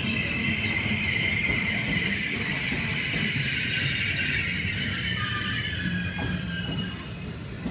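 Trenitalia regional train coaches rolling slowly past at platform speed, a low rumble under a high, sustained metallic squeal from the wheels and running gear. The squeal is strongest in the first few seconds and eases near the end.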